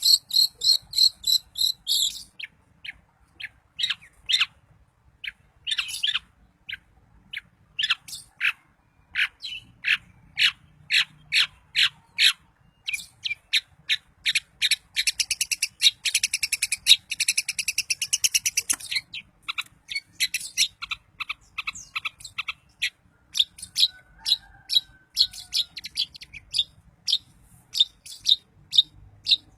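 Long-tailed shrike (cendet) singing: a high continuous trill for the first two seconds, then a long run of short, sharp chirps, thickening into a fast trill in the middle.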